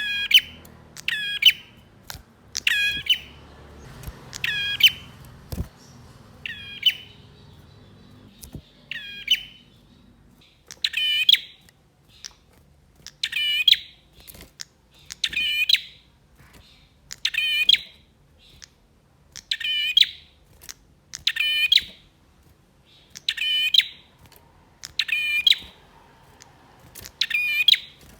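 Male prinia (prenjak) calling over and over: a short, loud, rapidly pulsed chattering note repeated about every two seconds.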